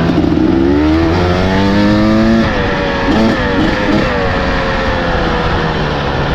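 Dirt bike engine revving up under throttle for about two and a half seconds, then dropping back, with a brief wavering of revs, then running lower and steadier.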